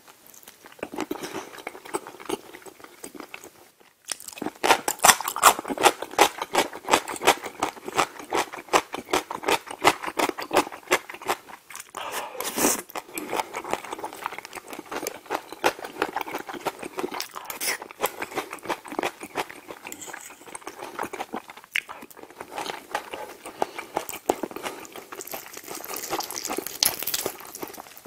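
Close-miked eating: biting into and chewing a smoked chicken leg in rosé cream sauce, with many quick mouth clicks. There is a brief lull about four seconds in.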